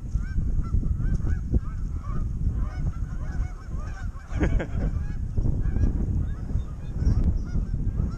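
A flock of geese honking, many short calls overlapping in quick succession, with a louder burst about four and a half seconds in, over a steady low rumble.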